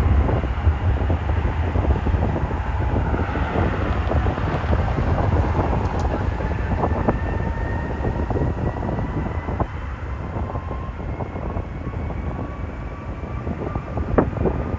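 Jet airliner engines running, a faint whine rising slowly, under heavy wind rumble on the microphone.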